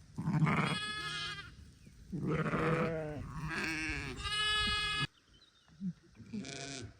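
Lambs bleating: a run of wavering, quavering bleats that stop abruptly about five seconds in, then one shorter, fainter bleat near the end.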